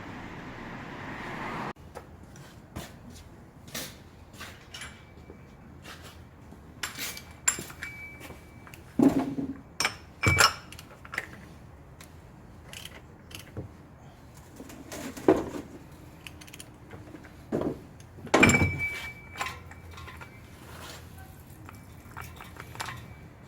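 Metal tools and parts clinking and clanking in a series of separate knocks, several with a brief metallic ring, as work on a car's engine oil change gets under way. Before that, a steady noisy vehicle hum that stops abruptly about two seconds in.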